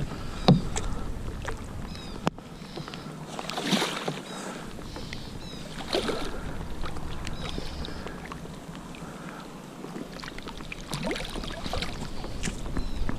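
Irregular splashes and knocks around a kayak as a hooked snook is brought alongside and handled, with a low wind rumble on the microphone.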